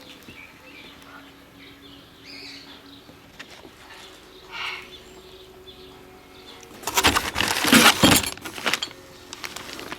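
Handling noise from a chainsaw being worked on: a quiet stretch, then a quick run of loud knocks and rattles about seven seconds in that lasts some two seconds.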